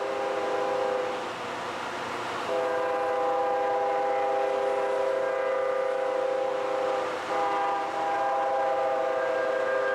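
Diesel locomotive air horn sounding a chord in long blasts. One blast ends about a second in; after a short pause a long blast starts, breaks off briefly a little after seven seconds, then sounds again.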